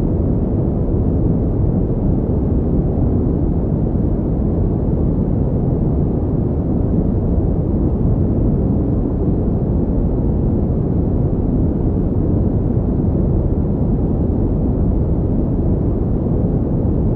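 Steady synthetic pink noise: an even, unbroken hiss with most of its weight in the low range, giving a deep rushing sound with no change in level.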